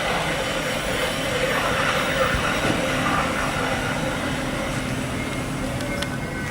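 A train passing at close range: a steady, loud rolling noise of wheels on rails, with faint steady whining tones.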